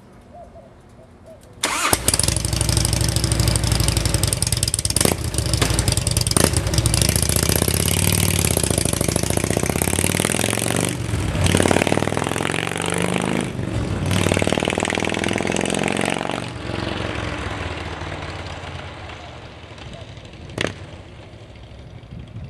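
2003 Harley-Davidson Road King's Twin Cam 88 V-twin, breathing through aftermarket B&E Max 2 slip-on mufflers, starting up about two seconds in and running loud. It revs up and down, then pulls away and fades.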